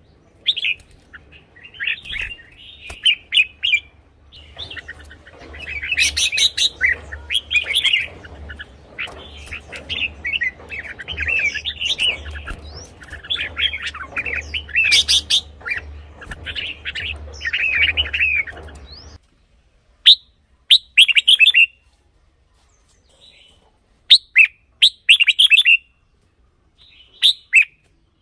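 Red-whiskered bulbul singing: bursts of short, rapid warbled phrases, over a low hum that cuts off about two-thirds of the way through. After that the phrases come singly with short gaps between them.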